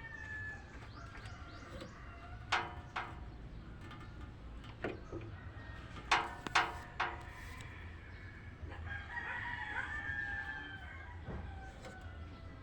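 A rooster crowing, one drawn-out crow starting a little past the middle. Over steady low background hum, a few sharp knocks or clicks come before it: two about two and a half seconds in, and three in quick succession around the middle.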